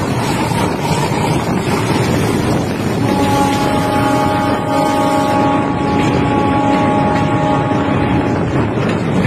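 Moving train heard from on board: steady running noise with wind buffeting the microphone. About three seconds in, a long steady horn sounds for about five seconds.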